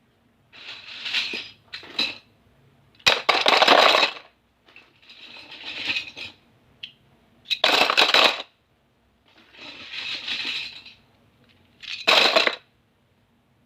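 Small plastic stationery items and packaging being handled: a series of noisy, clattering bursts about a second long, some starting with a sharp click, the loudest about three, eight and twelve seconds in.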